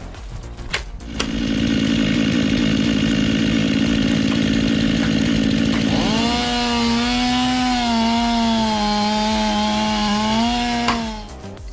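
Chainsaw running at high revs, rising to full speed about a second in. About halfway through, its note turns into a clear steady whine with slight pitch wobbles as it cuts, and it stops shortly before the end.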